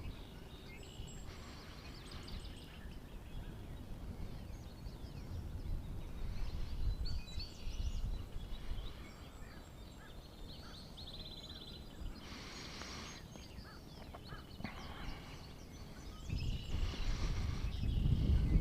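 Several birds chirping and calling in short, quick notes, including a rapid trill, over a steady low rumble of wind on the microphone, with a few brief louder gusts of rustling noise.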